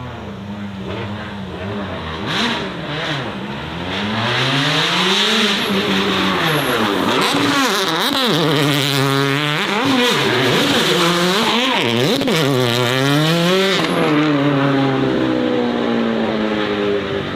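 Racing car engine revving hard, its pitch climbing and dropping again and again as it shifts through the gears while it goes past, loudest in the middle. A few sharp cracks sound about two to three seconds in.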